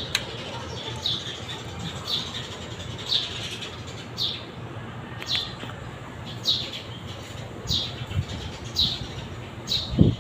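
A bird calling over and over, a short falling chirp about once a second. A low thump near the end.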